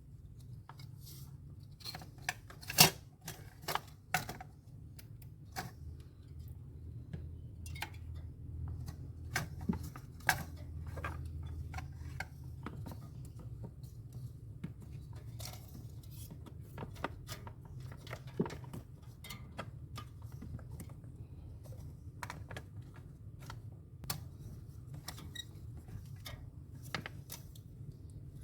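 Scattered clicks, taps and light knocks of hands and small tools working on refrigerator parts, over a steady low hum; the sharpest click comes about three seconds in.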